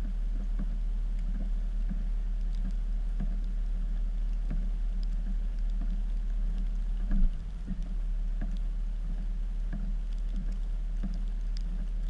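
Dodge Cummins diesel truck engine running steadily with a low drone, with scattered light clicks and one louder thump about seven seconds in.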